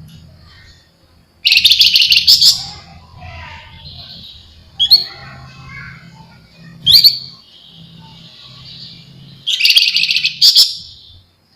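Javan fulvetta (flamboyan) giving loud, rapid buzzy chatters, two bursts of about a second each near the start and the end, with two short sharp calls in between. A faint low hum runs underneath.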